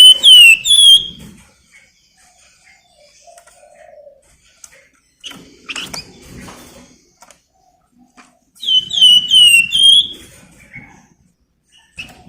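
Flamboyan songbird singing in bursts: a quick run of four downward-slurred whistled notes at the start, a single sharp note about six seconds in, and another run of four descending whistles about nine seconds in.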